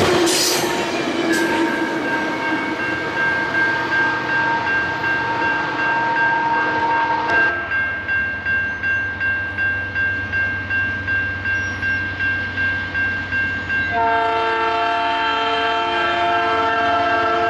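Locomotive multi-chime air horn sounding long held chords. About seven seconds in, the chord thins and the sound beats about twice a second. A fuller, louder chord comes back in near the end.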